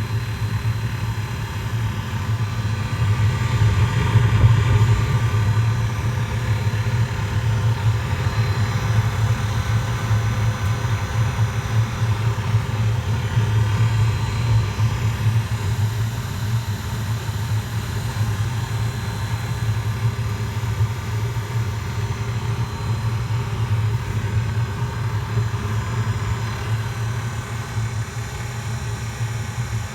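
OV-65 fuel-fired air heater with top exhaust running on 24 V at its first start: a steady low hum from its burner and blower, a little louder about four seconds in.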